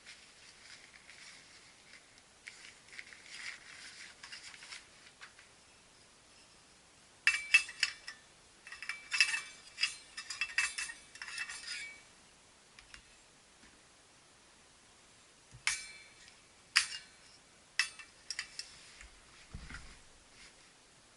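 Thin metal parts of a small backpacking wood stove clinking and rattling as they are handled: soft rustling at first, a dense run of sharp clinks from about a third of the way in, then a few separate clinks near the end.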